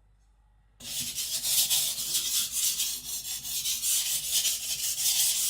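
Steel kitchen-knife blade scraped in quick strokes across a coarse 220-grit whetstone, starting about a second in: light, fast passes to weaken the burr on the edge.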